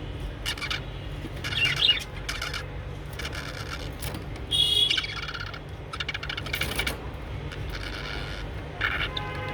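Budgerigars chirping and chattering in short warbling bursts, some louder than others, over a steady low hum.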